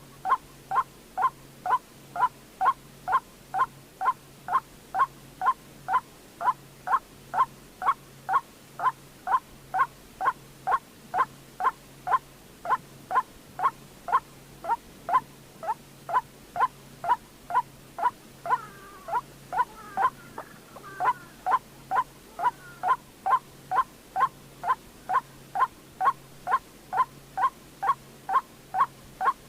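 White-breasted waterhen calling its monotonous repeated note: short falling calls about twice a second, with a second, more tangled call overlapping about two-thirds of the way through.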